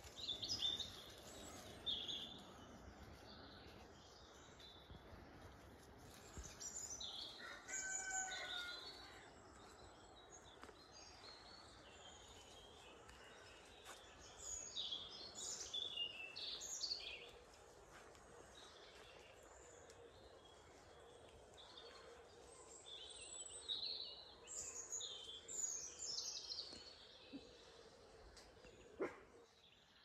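Wild birds chirping and singing on and off in the open air, with one longer, lower-pitched call about eight seconds in.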